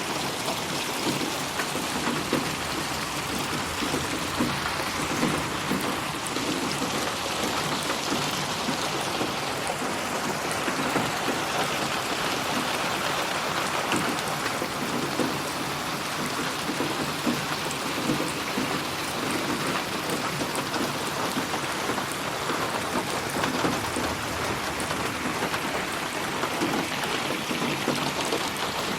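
Steady rain with close drops patting on a surface, as in an 8D rain-sound track.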